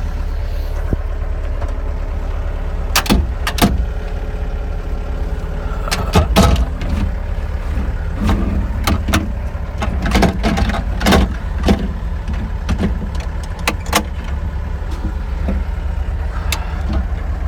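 John Deere 60G compact excavator's diesel engine running steadily, with a scattering of sharp metallic clanks and knocks over it.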